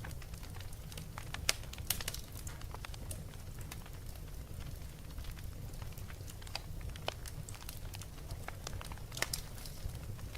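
Wood fire crackling: irregular sharp pops and snaps over a steady low rumble, with a cluster of louder pops about a second and a half in and again near the end.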